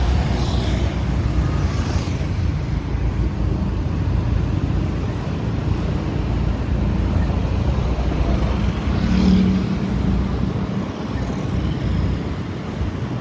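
Motorbike riding along a road: steady engine and road rumble, with passing traffic, and a brief louder moment about nine seconds in.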